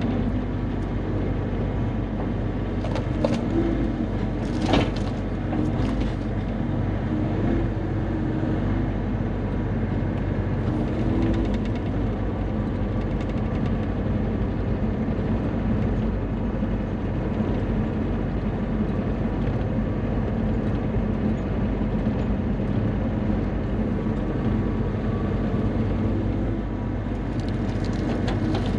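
Bobcat E35 mini excavator's diesel engine running steadily under work, with a few sharp knocks about three and five seconds in.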